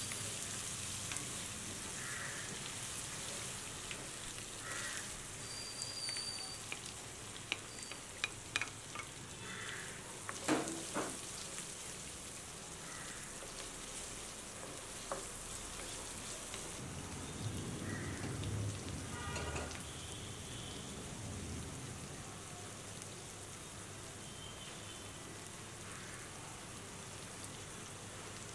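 Food sizzling steadily in a hot cooking pan, with a few sharp clicks about eight to eleven seconds in.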